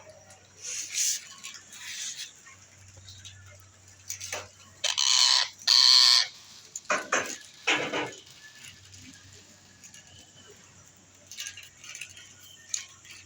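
Parrot giving a series of harsh squawks; the two loudest, each about a second long, come around the middle, with shorter ones before and after.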